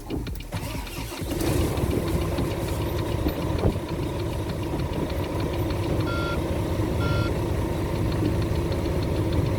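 Volvo FH12 truck's diesel engine cranking, catching about a second in and settling into a steady idle, a sign that the newly programmed transponder key has been accepted by the immobilizer. Two short dashboard beeps sound near the end.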